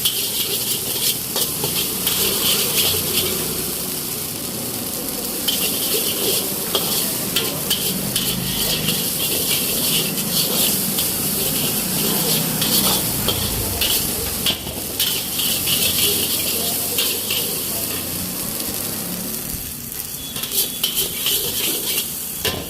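Chicken fried rice sizzling in a hot wok while a metal spatula repeatedly scrapes and clanks against the pan as it is stirred.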